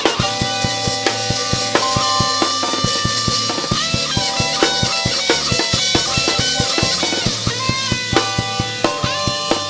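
A band playing an instrumental: drum kit keeping a fast, steady beat under bass, guitar and long held synth notes that step between pitches.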